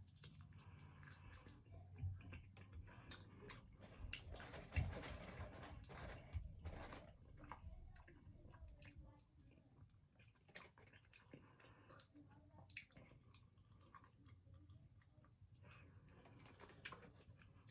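Faint close-up chewing and biting: a person eating, with small wet clicks and crackles and one louder knock about five seconds in.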